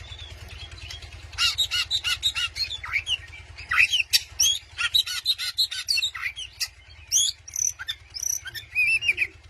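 Oriental magpie-robin (kacer) singing a fast, varied song of quick repeated notes, rising and falling slurs and clear whistles, starting about a second and a half in, over a steady low hum.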